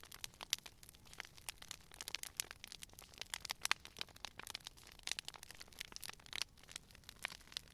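Campfire crackling: wood burning with irregular sharp snaps and pops, several a second, over a soft hiss.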